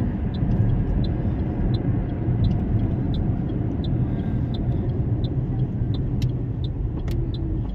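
Steady low rumble of a road vehicle running, with a faint tick repeating about every 0.7 seconds.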